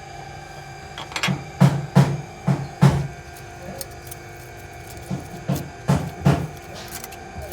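Sharp metal clicks and taps of hand tools working on the engine's valve train during shim-type tappet adjustment, in two quick groups of four or five, over a steady motor hum.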